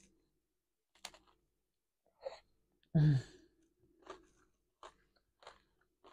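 Chewing a bite of crunchy crispbread topped with beetroot: scattered faint crunches and mouth sounds, with one short breathy vocal sound, like a sigh, about three seconds in.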